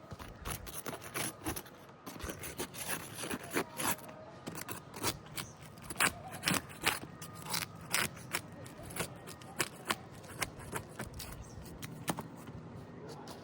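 Putty knife working under asphalt roof shingles, breaking their sealant bond: a run of short, irregular scrapes and cracks, quickest and sharpest through the middle.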